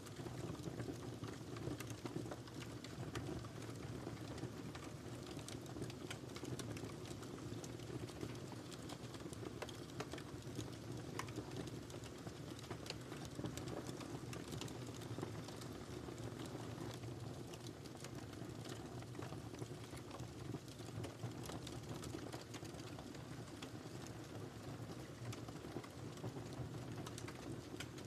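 Wood fire burning in a fireplace: a steady low rush of flames with dense, irregular small crackles and pops throughout.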